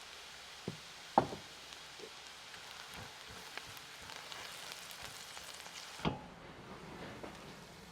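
Cooking oil sizzling and crackling in a pan, with a sharp knock about a second in and another near the end.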